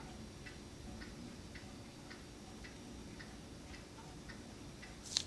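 Clock ticking faintly and steadily, about two ticks a second.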